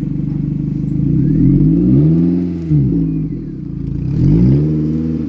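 Mazda Protege's four-cylinder engine idling, then revved twice, each rev rising in pitch and falling back to idle over about a second and a half.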